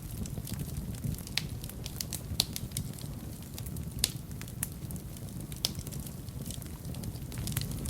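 Fire burning in a fireplace, crackling with many irregular sharp pops over a steady low rumble of the flames. A couple of pops are louder, near the middle.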